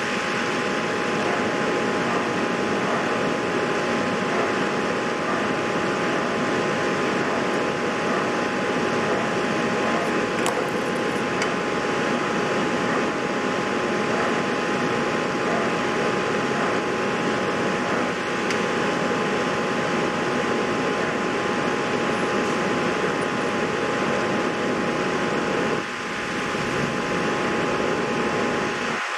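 Steady fan-like air noise with two faint steady tones over it, dipping briefly near the end.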